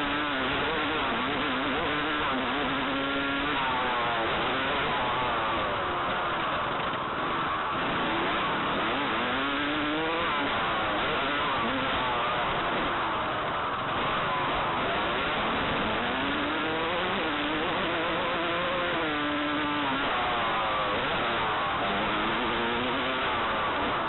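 Motocross dirt bike engine being ridden hard, its pitch climbing again and again as the throttle opens, then dropping back, about four times, under a steady rushing hiss.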